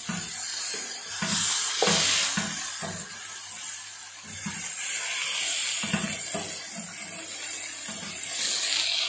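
Beef keema kebabs sizzling in oil on a ridged grill pan, with a few knocks and scrapes of a spatula against the pan as they are turned over.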